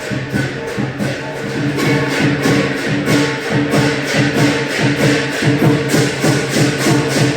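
Lion dance percussion: a Chinese drum, cymbals and gong played together in a fast, steady beat, with the cymbals and gong ringing on between strokes.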